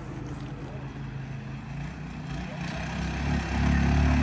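Minibike's small engine running steadily, growing louder from a little past halfway as the bike comes closer.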